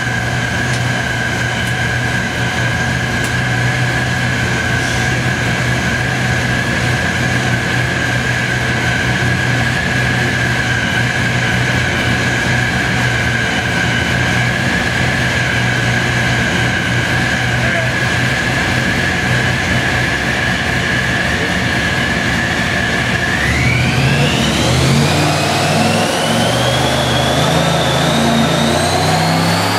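ProCharger-supercharged 548 big-block Chevrolet marine engine running at a steady speed with a steady high whine. About three-quarters of the way through it revs up, and the whine climbs in pitch as the revs build.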